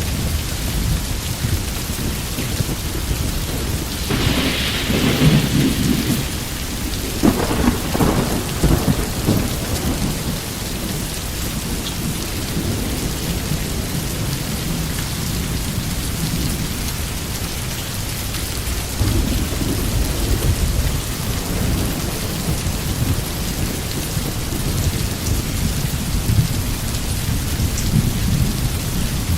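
Steady heavy rain with rolling thunder. A sharper, crackling thunder peal comes about four seconds in and rolls on for several seconds, with lower rumbles later.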